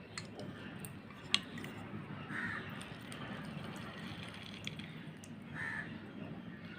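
Crows cawing in the background, two short harsh caws about two and a half and nearly six seconds in, over a faint steady background, with one sharp click about a second and a half in.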